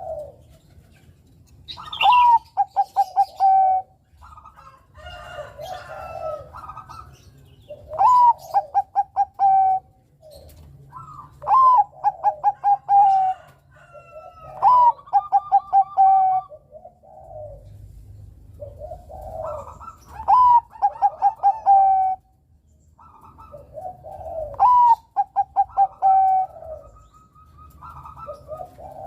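Zebra dove (Bangkok-type perkutut) cooing song. The phrase comes every few seconds: a rising-falling opening note, a quick stuttering run, then a held coo. Softer, lower coos fill the gaps between phrases.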